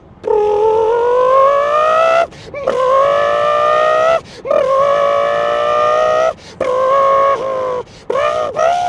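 A man imitating a Lexus LFA's V10 engine with his mouth: a loud held note that climbs in pitch, breaks off for a moment and starts again lower, about four times over, like an engine revving up through the gears.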